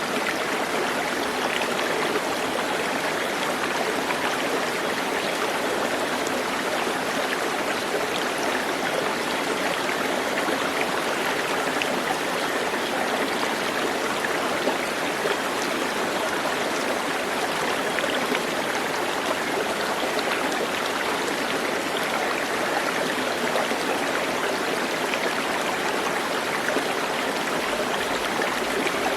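Running water, a steady even rush with fine splashing and no change in level.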